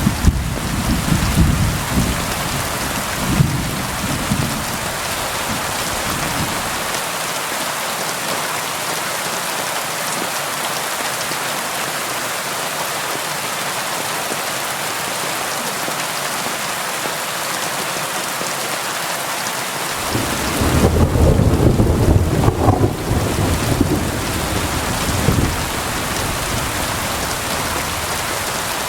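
Steady rain with rolling thunder. A low rumble fades out about six seconds in and returns for a few seconds about twenty seconds in, while the hiss of the rain runs on unchanged.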